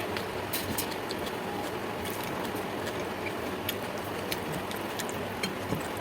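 Eating sounds: scattered small wet clicks and crunches from a person chewing and handling soaked rice and fried vegetables, over a steady background hiss.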